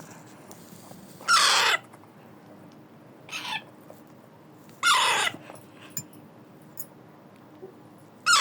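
Baby parrot giving loud, harsh screeching calls, each about half a second long and falling in pitch. There are three loud calls about three and a half seconds apart, with a fainter one between the first two.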